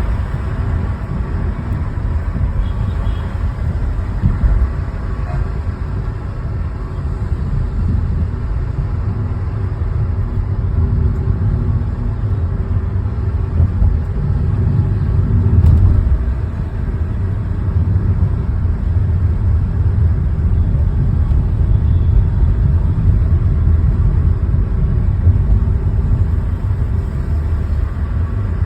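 Car driving on a city road: a steady low rumble of engine and tyres with traffic noise.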